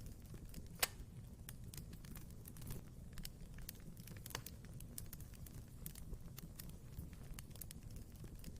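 Wood fire burning in a fireplace, with a low steady rumble and frequent irregular crackles, and one sharp pop about a second in.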